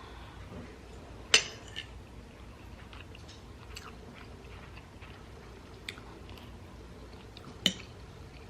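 Close-up eating sounds of a person chewing chicken bake and broccoli, with soft mouth ticks and two sharp clicks, about a second and a half in and near the end.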